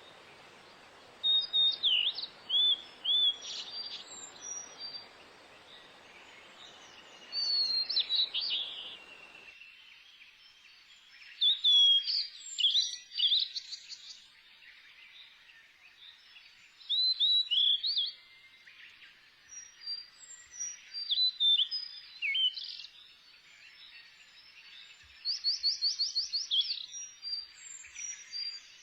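Songbirds singing in repeated bursts of short whistled phrases with pauses between them, and a fast high trill near the end. Under the first third runs a faint hiss, which cuts off suddenly.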